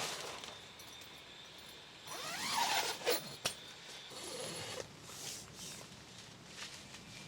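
Gear being handled close by: a rubbing, sliding sound about two seconds in, two sharp clicks just after it, then softer rustling.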